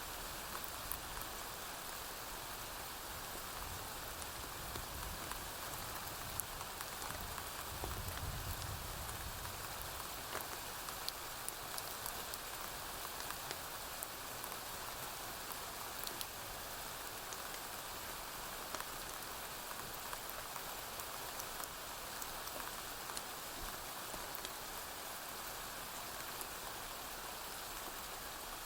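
Steady rain falling on a roof, dotted with scattered sharp crackles from a wood fire. A low rumble of distant thunder swells and fades about eight seconds in.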